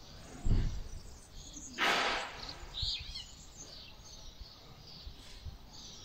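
Small birds chirping in short, high calls now and then, over the low buffeting of wind on the microphone, with a brief rushing noise about two seconds in.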